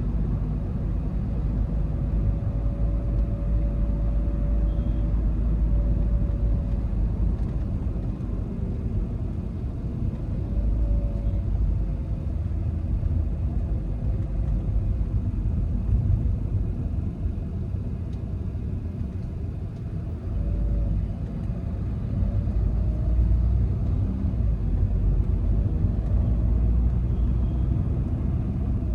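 Volkswagen Vento 1.5 TDI on the move: a steady low rumble of road and engine noise, with a faint engine note that rises and falls a few times as the revs change.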